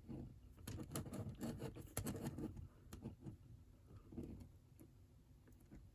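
Quick, irregular scratching strokes of a drawing tool on paper, scribbling in Cookie Monster's fur, busiest in the first two or three seconds and thinning out after.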